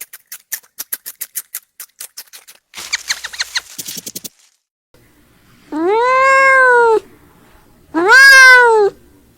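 Domestic cat meowing twice: two long calls, each rising and then falling in pitch, in the second half. Before them comes a quick run of sharp clicks, several a second, and a short rustle.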